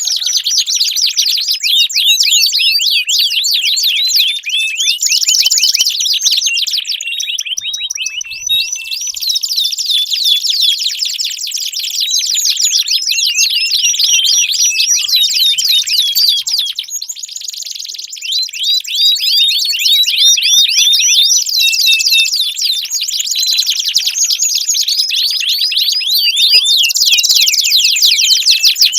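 Domestic canary singing long, fast, high-pitched rolling trills and chirps, almost without a break, dipping briefly about 8 and 17 seconds in.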